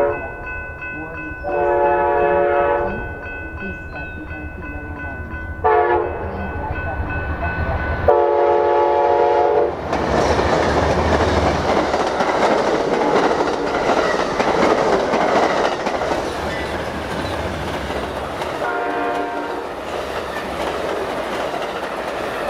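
Amtrak passenger train's horn sounding the grade-crossing pattern: long blasts, a short one, then a final long one. Then the train passes, with the loud, steady rush and rattle of its cars rolling over the rails and one more faint horn note near the end.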